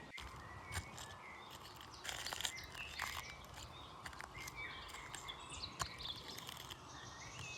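Several small birds chirping and calling over a steady outdoor hiss, with a few short clicks scattered through.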